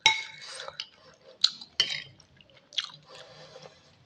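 A person eating instant noodle soup close to the microphone: a loud wet slurp at the start, a few sharp smacks of chewing, and another softer slurp near the end.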